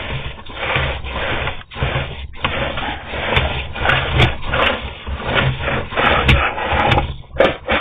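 Sewer inspection camera being pulled back through the pipe: irregular scraping and rubbing of the camera head and push cable against the pipe wall, with a steady low hum underneath.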